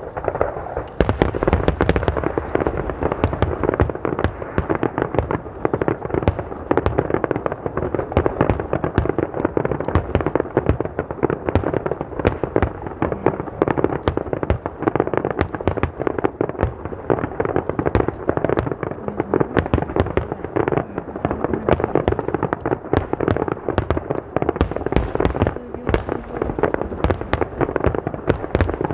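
Aerial fireworks display: a dense, continuous barrage of shell bursts, many each second, with the loudness picking up about a second in.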